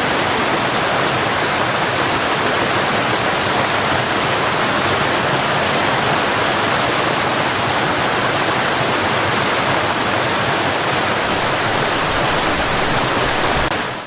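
Steady rush of flowing water, an even dense hiss, cutting off abruptly at the very end.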